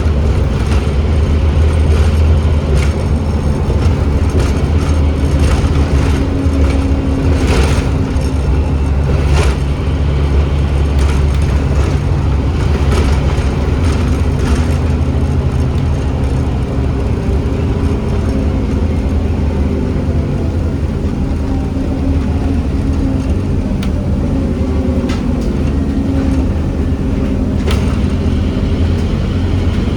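Scania N270UD OmniCity double-decker bus heard from inside the saloon: its 9.3-litre five-cylinder diesel is running steadily with a deep hum. A few sharp rattles or clicks from the bodywork come through, one at about a quarter of the way in and another near the end.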